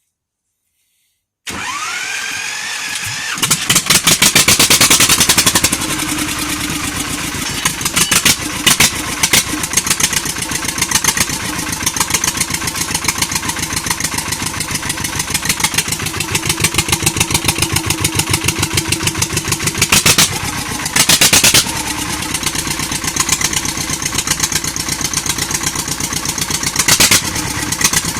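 D-21 two-cylinder air-cooled tractor diesel being cranked with a brief rising starter whine and catching, then running with a fast, even knocking beat. It is revved up briefly several times, with louder spells about a third of the way in, near the two-thirds mark and near the end.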